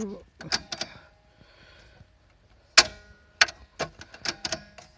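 Sharp mechanical clicks and knocks, about eight of them, several followed by a short metallic ring, from the mechanism of a vintage Ricoh Synchrofax magnetic-sheet recorder being handled; the loudest comes about three seconds in.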